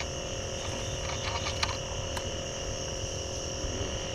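Steady outdoor background: insects droning at a couple of fixed high pitches over a low, even rumble, with a few faint clicks.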